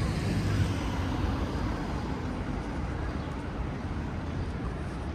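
Outdoor city ambience: a steady low rumble of traffic noise, heaviest in the first second, then even.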